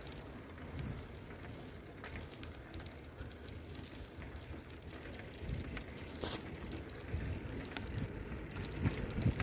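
Bicycle being ridden: a steady low rumble of tyres on the road with small rattles and clicks from the bike, and a sharper click about six seconds in.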